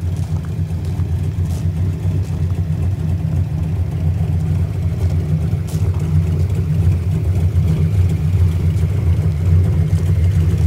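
Fox Body Mustang drag car's 5.0 V8 idling with a steady low rumble, a little louder in the second half.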